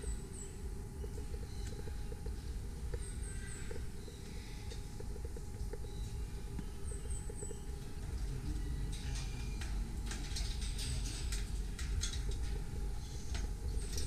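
Birds in an aviary: a small bird repeats a high, quick three-note chirp every few seconds, and in the second half comes a run of sharp clicks and rustles, over a steady low rumble.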